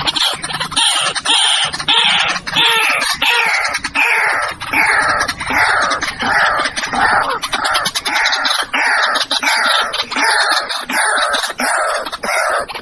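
White-breasted waterhen calling: a loud, unbroken run of repeated calls that fall in pitch, about two a second.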